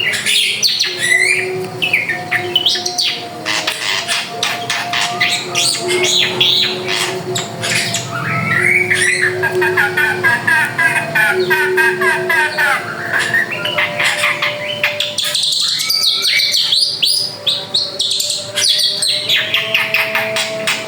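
Drongo singing continuously: a rich, varied run of whistles, sliding notes and rapid chattering trills, with hardly a pause. Faint steady low tones sound underneath.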